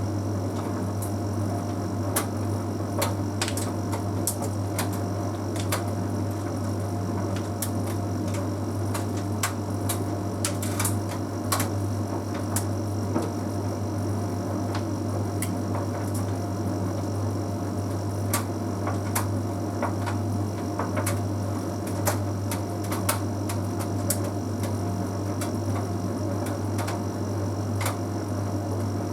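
Bosch Series 6 heat pump tumble dryer running: a steady low hum with faint steady whining tones above it, and irregular light clicks and ticks as the load tumbles in the drum.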